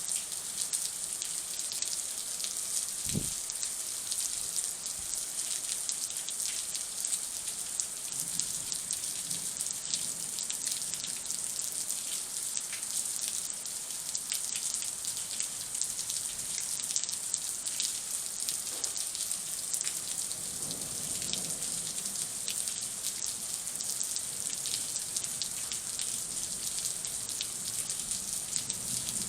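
Thunderstorm rain falling steadily: an even hiss with many separate drops ticking close by. A single short low thump comes about three seconds in.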